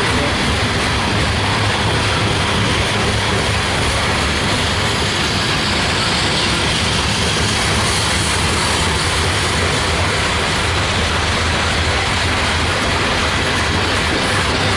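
Loaded coal train rolling past close by: a steady, loud rumble of wheels on rail that holds even throughout.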